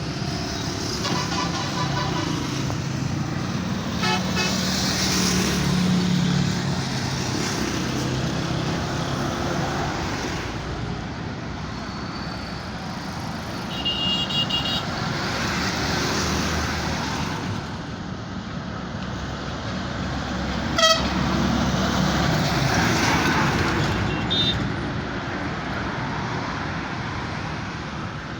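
Heavy trucks' engines running, with several short horn toots over the engine noise and a sharp click about two-thirds of the way through.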